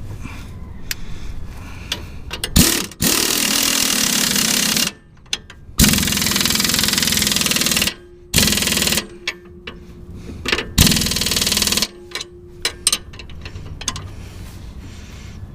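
Impact wrench running a nut down onto a Jeep's rear lower control arm bolt, in four bursts, the longest about two seconds, with clicks of tool handling between.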